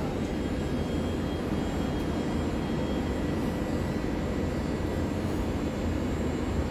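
Steady low rumble of a regional train standing at the platform with its onboard equipment running, and a faint high whine over it.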